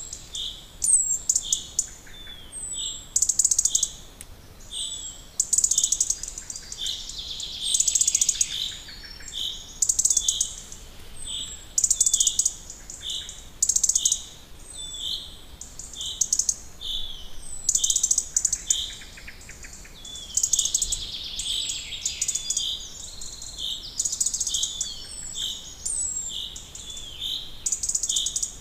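Forest birds calling: a short high note repeated steadily over and over, with bursts of fast, very high trilling song every couple of seconds.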